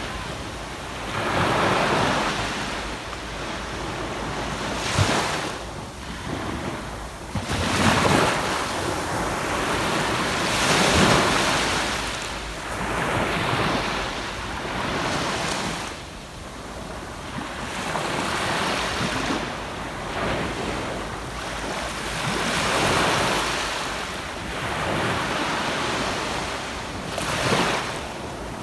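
Ocean waves breaking and washing onto a sandy beach, swelling and falling every few seconds, with wind buffeting the microphone.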